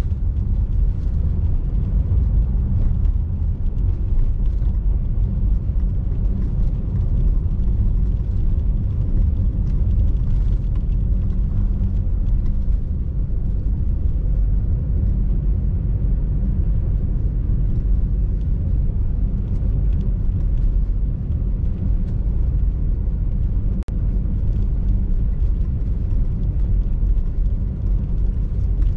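Steady low rumble of a car driving on snow-covered roads: tyre and road noise with the engine beneath it. It drops out briefly about three-quarters of the way through.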